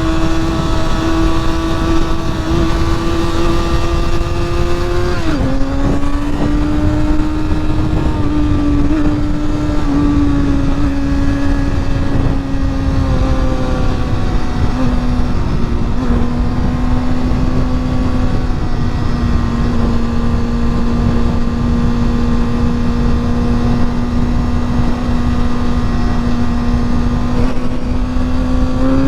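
Honda CBR motorcycle engine running at steady cruising revs. About five seconds in the pitch drops sharply, as with an upshift, then holds nearly level. Heavy wind noise rushes over the microphone throughout.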